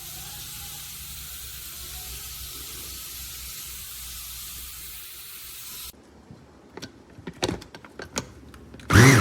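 A steady hiss that cuts off abruptly about six seconds in, followed by a few sharp clicks and knocks of plastic parts being handled. Right at the end an electric food chopper's motor starts a short pulse, rising in pitch.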